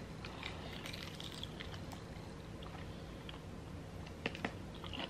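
Quiet eating sounds: soft chewing with a few faint clicks, over a low steady hum.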